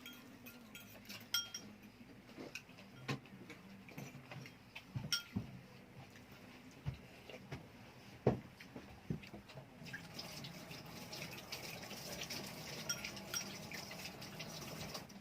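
Cutlery and dishes clinking and knocking at a dinner table, in scattered taps, a few of them ringing briefly. About ten seconds in, a denser crackly rustle sets in under the clinks.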